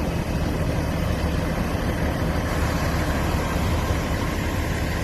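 A fire truck's engine running steadily with a low, even hum.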